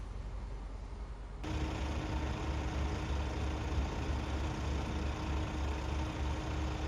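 A vehicle engine running at idle: a steady low rumble that turns suddenly louder, with a steady hum on top, about a second and a half in.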